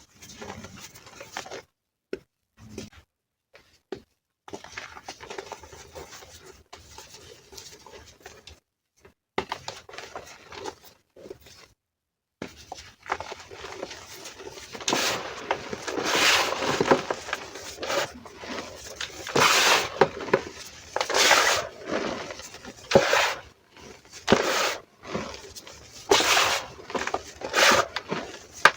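Reformed gym chalk being crushed, with crisp crunching and crumbling. It is soft and broken by brief silent gaps at first, then turns louder about halfway through, with a strong crunch roughly every second.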